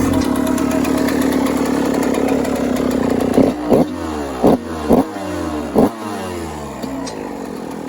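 Freshly rebuilt 2018 Yamaha YZ250F's single-cylinder four-stroke engine idling, then blipped five times in quick succession about three to six seconds in, the revs rising and dropping sharply each time. It runs clean on a new spark plug after a top-end rebuild.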